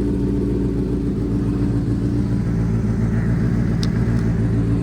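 Benelli 600's inline-four engine idling steadily through an SC Project aftermarket exhaust, warming up after a cold start.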